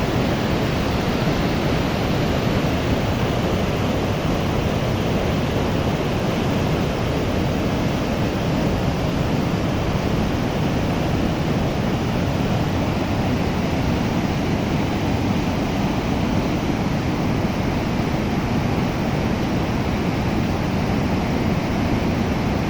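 Mardi Khola, a mountain river swollen in flood, rushing and surging in a steady, unbroken torrent.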